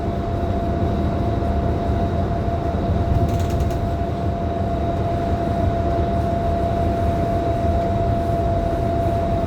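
Cabin noise of a Scania K310IB city bus under way: a steady low rumble from the engine and road, with a constant whining tone on top.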